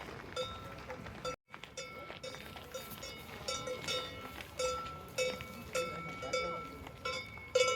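Cowbells on grazing cows clanking irregularly, a strike every half second to a second, each ringing with the same few clear metallic tones. The sound cuts out completely for an instant about a second and a half in.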